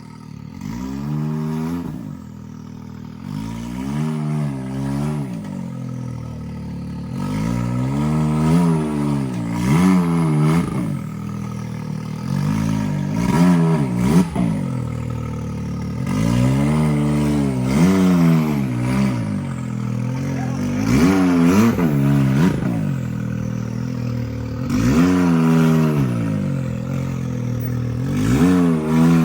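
Side-by-side UTV engine revving up and down in short bursts, over and over, as it works its way up a rock crawl.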